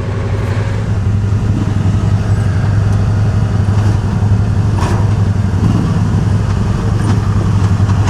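Arctic Cat 4x4 UTV engine running steadily at a low, even speed, with one sharp click about five seconds in.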